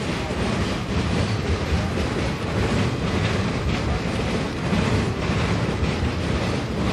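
Freight train of boxcars rolling past: a steady rumble and rattle of steel wheels on the rails.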